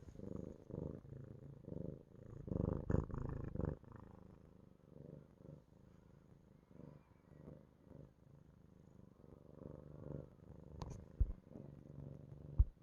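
Orange tabby cat purring in a low, rhythmic pulse, loudest a few seconds in. Two sharp knocks sound near the end.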